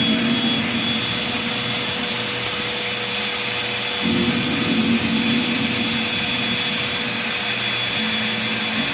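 Vacuum cleaner running steadily, a continuous rushing noise with a thin whine over it; its lower hum fades and returns about four seconds in.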